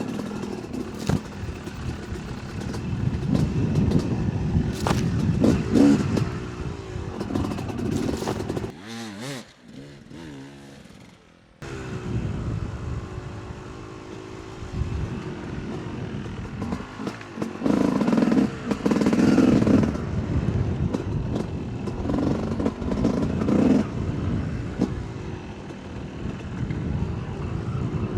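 Yamaha YZ 250 two-stroke dirt bike engine revving up and down under changing throttle on a rough trail, with knocks and rattles from the bike over the ground. About nine seconds in the revs fall away to a quiet, low running for a couple of seconds, then the engine picks up again sharply.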